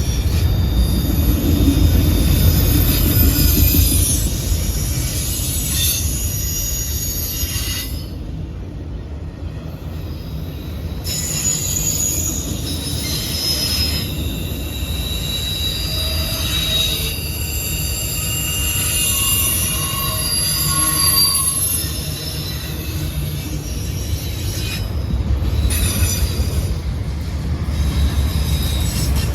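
Canadian National autorack freight train rolling past with a steady low rumble. High-pitched wheel squeals come and go over it.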